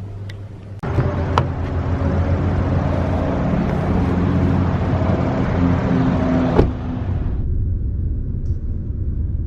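Car on the move: steady engine and road noise with a low rumble, with a sharp click about two-thirds of the way through, after which the noise turns duller.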